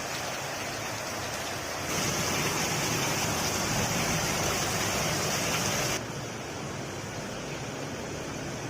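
Heavy rain falling, a steady hiss that grows louder and brighter for a few seconds from about two seconds in, then drops back.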